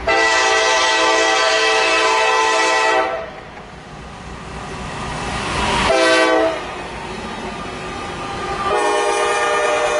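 Diesel locomotive air horn sounding a chord of several tones: a long blast, a short one about six seconds in, and another long blast starting near nine seconds. This is the long-long-short-long pattern a train sounds approaching a grade crossing. Between blasts the passing train's noise swells.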